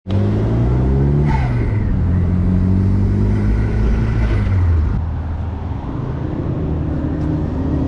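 Car engine running and revving, its pitch shifting up and down, with a short falling glide about a second in.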